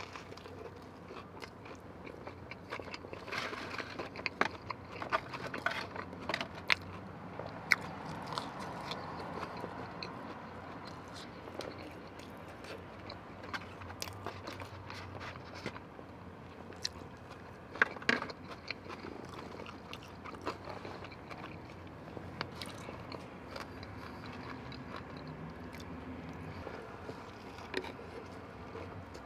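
Close-up eating sounds: biting into and chewing a fried chicken tender sandwiched in Texas toast with sauce. Irregular wet mouth clicks and crunches, with a louder cluster of bites about two thirds of the way through.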